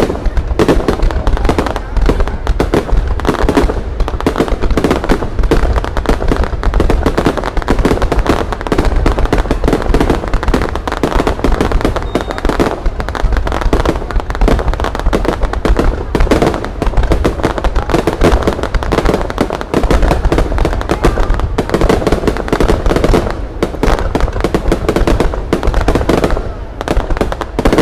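Aerial fireworks display: a continuous stream of rapid bangs and crackles with no pause, with voices underneath.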